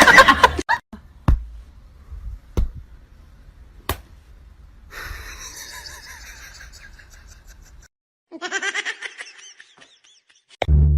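Three sharp knocks, a little over a second apart, then a short burst of laughter near the end.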